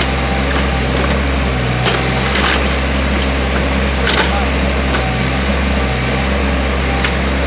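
Excavator's diesel engine running steadily under load, with several sharp cracks and snaps of wood as branches and roots break while trees are pushed over and moved.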